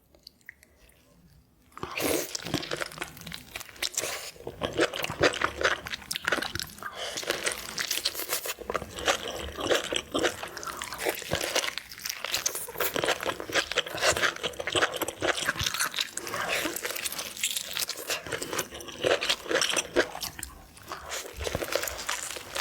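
Close-miked eating of lobster: dense, crackly crunching and chewing, starting about two seconds in.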